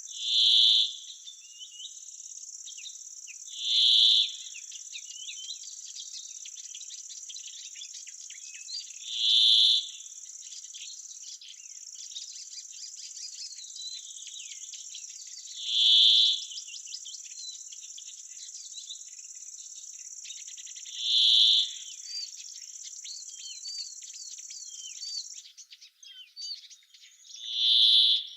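Summer insects stridulating: a steady high-pitched buzz that cuts off about three seconds before the end. Over it, a louder short call repeats six times a few seconds apart, with faint bird twitters in between.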